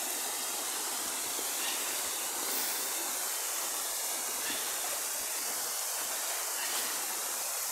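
Waterfall pouring steadily into a pool, an even rushing hiss of falling water.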